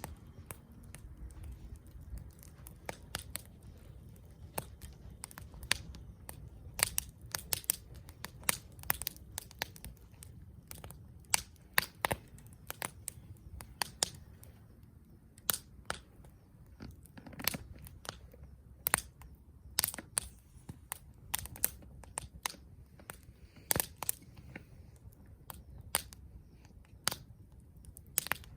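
Wood fire crackling: sharp, irregular snaps and pops, sometimes several in quick succession, over a low steady rumble.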